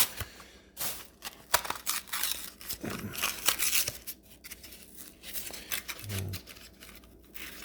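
A Hot Wheels die-cast car's blister package being torn open by hand: cardboard backing ripping and stiff plastic blister crinkling in a series of irregular rips and crackles.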